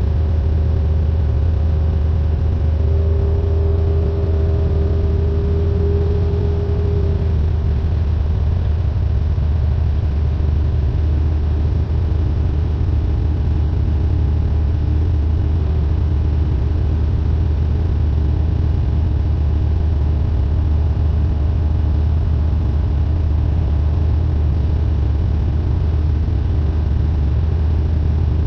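Cessna 172N's four-cylinder Lycoming engine and propeller droning steadily at constant power, with a fainter higher tone wavering over the first several seconds before fading.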